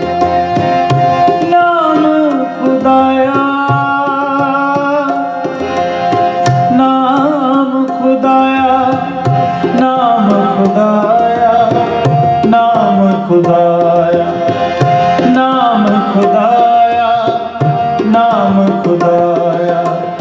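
Sikh kirtan music: tabla playing a steady rhythm under a melody of held notes with sliding, ornamented pitch, the harmonium and voice of a Gurbani hymn between its sung lines.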